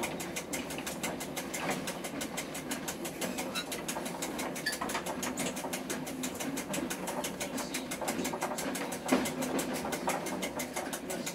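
Train in motion heard from inside the driver's cab: steady running noise with a fast, even mechanical ticking all the way through, and a single sharper knock about nine seconds in.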